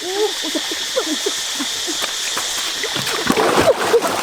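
Short pitched calls that rise and fall, several a second, over a steady high hiss, with splashing water starting about three seconds in.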